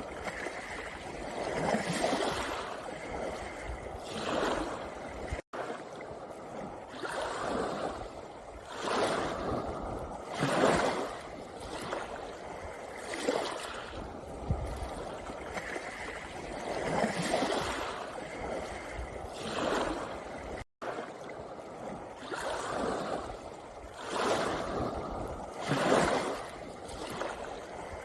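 Small sea waves breaking and washing up a pebble beach, a new surge every two seconds or so. The sound cuts out for an instant twice.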